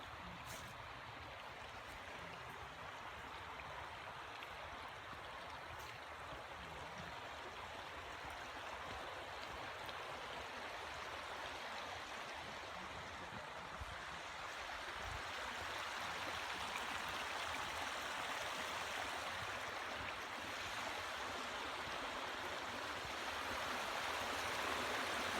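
Creek water running over rocks: a steady rush that grows gradually louder.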